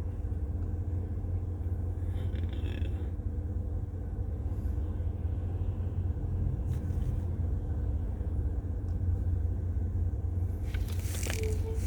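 A steady low rumble with a faint, even hum above it, with no change in level.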